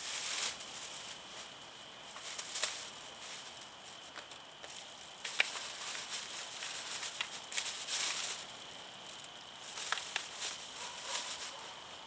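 Wood fire crackling, with sharp pops and uneven bursts of hiss coming and going.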